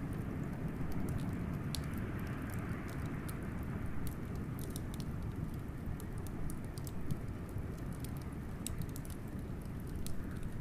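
Wood fire crackling with frequent irregular sharp pops over a steady deep rush of blizzard wind.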